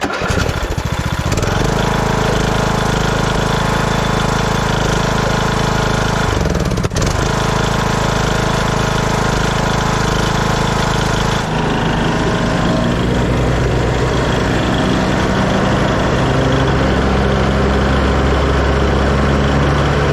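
Craftsman T1600 lawn tractor engine running with the mowing deck blades engaged. There is a brief dip about seven seconds in, and the engine's tone changes about eleven and a half seconds in.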